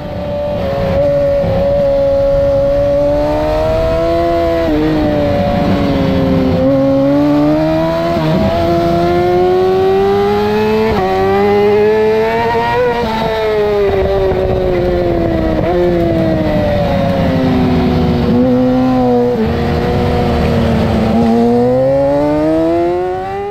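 2008 Yamaha R6's inline-four engine at racing revs, heard from on board. Its pitch climbs and drops abruptly several times as it shifts up through the gears, falls away in the middle as the bike slows, and climbs again near the end.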